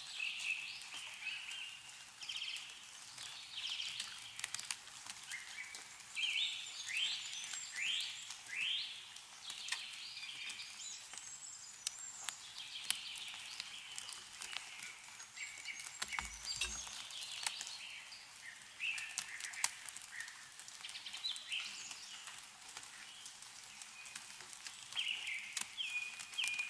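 Small songbirds calling and singing on and off, with a run of quick falling notes about a third of the way in, over scattered ticks and drips of melting snow and water falling from trees.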